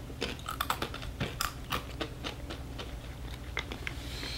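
Dried edible scorpion being bitten and chewed, a run of irregular sharp crunches close to the microphone, with a brief rustle of a foil snack packet near the end.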